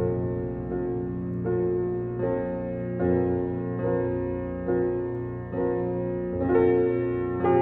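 Soft background piano music, chords changing about once a second.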